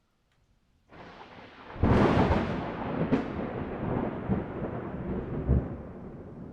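Thunder: after a second of near silence a rumble starts, breaks into a loud sharp crack about two seconds in and a second crack a second later, then rolls on and slowly fades.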